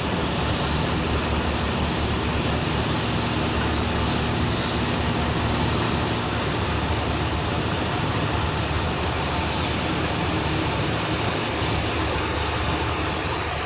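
A boat's engine running steadily under a strong wind rushing over the microphone.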